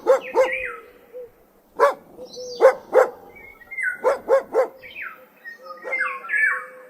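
Dog barking: sharp single barks and quick runs of two or three.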